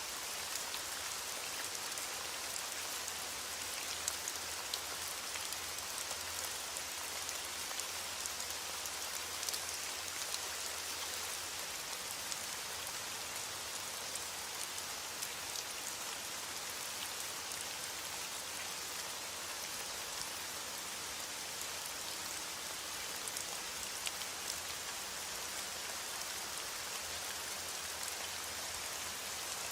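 Steady rain falling, a continuous hiss dotted with many small ticks of individual drops hitting a surface.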